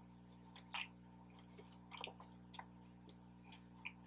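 A person chewing a chicken-and-waffle slider close to the microphone: faint, scattered wet smacks and mouth clicks, over a low steady hum.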